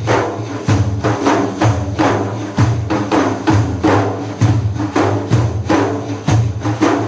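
Frame drums with jingles playing a steady rhythmic pattern of sharp beats over a held low tone, an instrumental passage between sung lines of religious praise.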